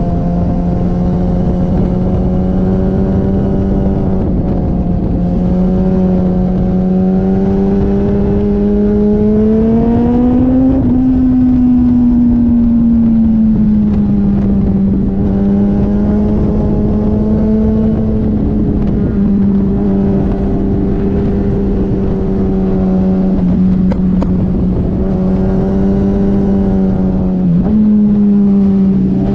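Motorcycle engine running hard at steady high revs, with a constant rush of wind noise. The engine pitch climbs about ten seconds in, then eases back down, and dips briefly near the end before picking up again.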